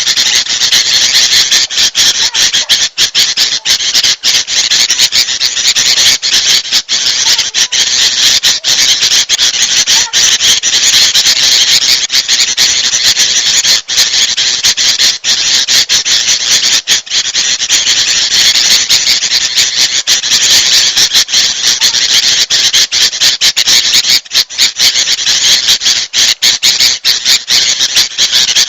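Dense, continuous chatter of agitated bulbul calls, many calls overlapping with no pause: a lure recording mixing the noisy alarm calls of sooty-headed bulbuls (kutilang) with those of kutilang emas. It is used to draw wild bulbuls and other small birds.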